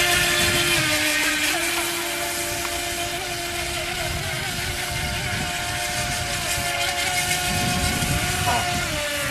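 Mini RC racing boat's 370 electric motor running with a steady whine whose pitch steps up and down several times as the throttle changes, over a rushing noise underneath.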